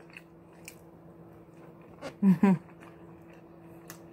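Close-up chewing and wet mouth sounds of someone eating a beef quesadilla, with a few soft clicks. About two seconds in come two short hummed vocal sounds, over a faint steady hum.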